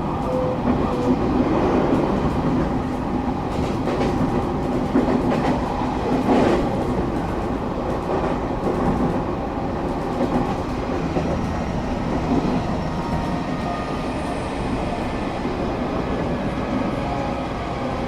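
Passenger train running, heard from inside the carriage: a steady low rumble of wheels and motors, with a few clacks of wheels over rail joints in the first half.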